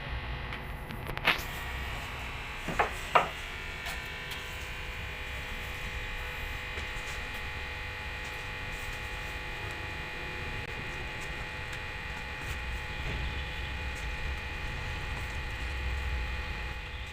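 Steady buzzing hum, like a small electric motor or electrical equipment running, with three sharp knocks early on, two of them close together.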